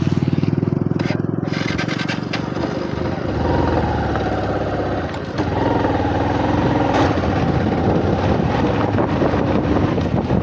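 Bajaj Platina motorcycle's single-cylinder four-stroke engine running, its revs rising about three and a half seconds in, dipping briefly near the middle, then holding higher as the bike pulls away.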